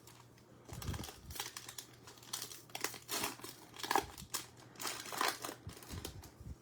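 Trading-card pack wrapper crinkling and tearing as it is opened, in a run of irregular crackles starting about a second in.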